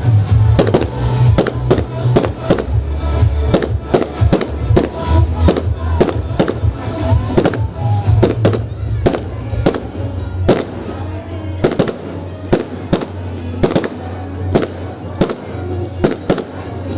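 Fireworks going off in a rapid, irregular series of bangs, several a second at first and thinning out after about nine seconds, with music playing underneath.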